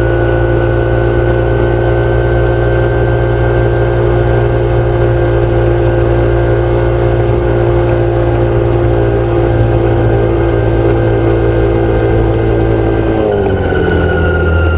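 An engine running steadily with a loud low hum, its pitch shifting and wavering about thirteen seconds in.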